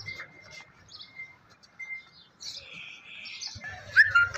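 Small birds chirping in short, high calls, with one louder chirp near the end.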